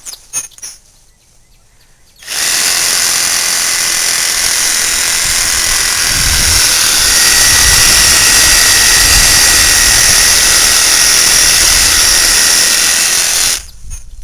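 Cordless reciprocating saw with a pruning blade cutting through a thick shrub branch. It starts about two seconds in, runs steadily for about eleven seconds and cuts off suddenly near the end.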